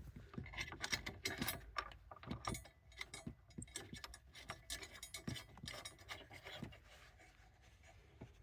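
Light, scattered clicks and clinks of hand tools and small parts being handled, dying away near the end.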